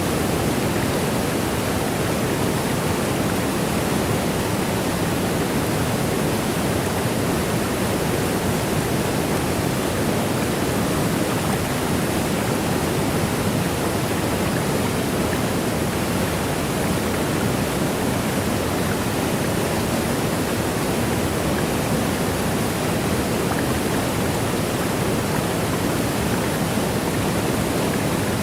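Waterfall: a steady, unbroken rush of falling water with no distinct splashes or changes.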